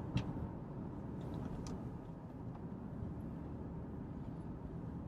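Steady low rumble of a car heard from inside the cabin, with a couple of faint short clicks.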